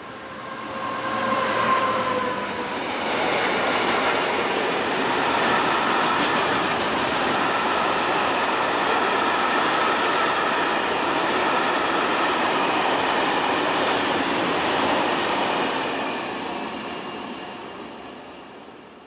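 A train passing close by on the main line: a tone that falls slightly as the head of the train goes by in the first two seconds, then a long steady rush of wheels on the rails, fading away near the end.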